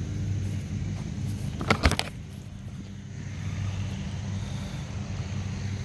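A steady low engine hum, like a motor vehicle idling or traffic running, with a brief cluster of sharp clicks a little under two seconds in.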